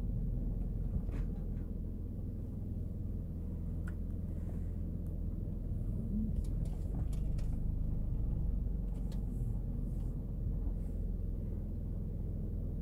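Car engine running steadily, a low rumble heard from inside the cabin, with a few faint clicks.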